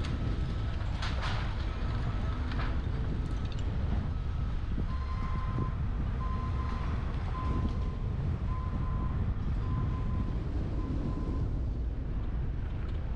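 Wind rushing over a roof-mounted action camera on a moving truck, with a steady low road rumble and a few knocks early on. About five seconds in, a backup alarm beeps six times, roughly once a second.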